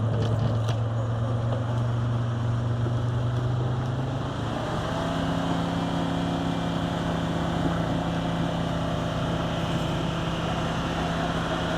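A car engine's steady drone with road noise while driving; about four and a half seconds in, the engine's pitch steps up and then holds.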